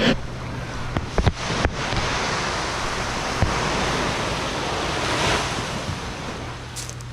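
Waves washing in, with wind buffeting the microphone; the surf swells about five seconds in. A few sharp knocks come about a second in.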